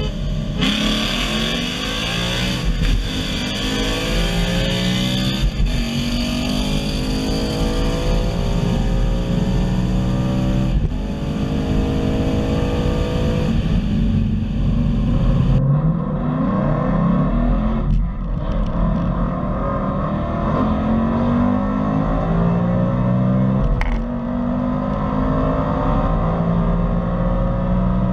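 Ford Mustang's 5.0 Coyote V8 accelerating hard through the gears. Its pitch climbs steadily, then drops back at each upshift, about six times in a row.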